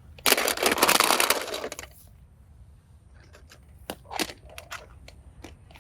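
A crackling, crunching noise made of many fine clicks, lasting about a second and a half, then a few scattered small clicks.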